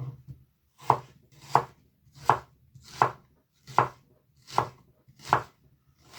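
A knife chopping food on a cutting board in slow, steady strokes, about eight blows in a row at a little under one and a half a second.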